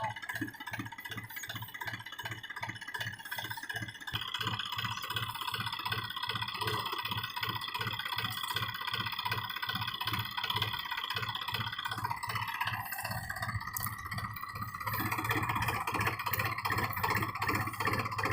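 New Holland 4710 4WD tractor's diesel engine running under load with an even, pulsing beat; it grows louder about fifteen seconds in.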